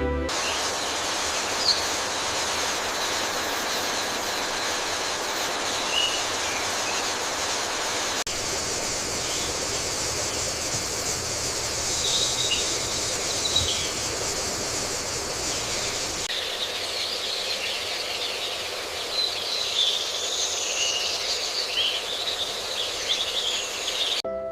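Forest ambience: a steady, high hiss with short bird chirps scattered through it.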